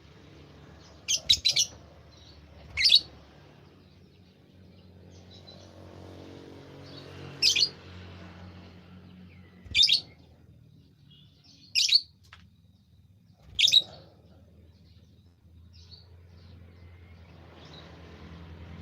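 A bird giving short, sharp, high chirps every two seconds or so, the second a quick run of three.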